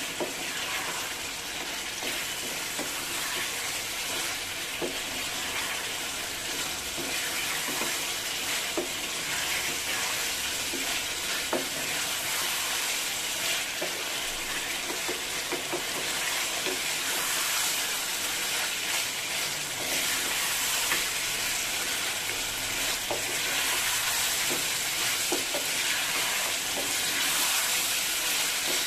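Mutton pieces sizzling and frying in a thick spice masala in a pan, with a spatula repeatedly stirring and scraping them: the kosha (bhuna) stage of a mutton curry, where the meat is fried down in its spices over high heat. A steady hiss with scattered soft scrapes.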